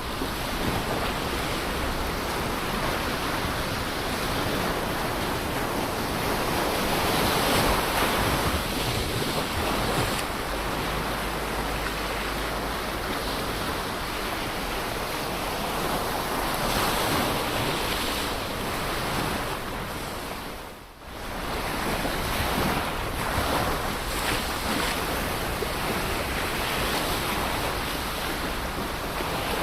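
Ocean surf: waves breaking and washing up the shore in a continuous rushing wash that swells and eases. There is a brief dip in the sound about two-thirds of the way through.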